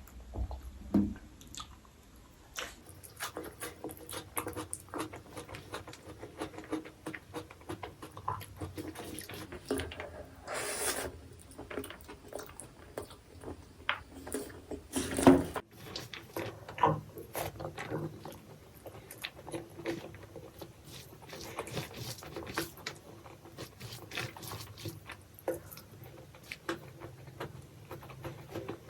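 Close-miked eating sounds: chewing braised pork and white rice, with many small wet clicks and smacks of the mouth. There is a longer hissing rustle about ten seconds in and a louder sharp thump about fifteen seconds in.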